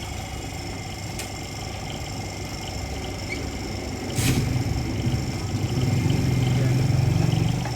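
An engine running with a steady low hum. A sharp click comes about four seconds in, after which the hum grows louder and stays loud until near the end.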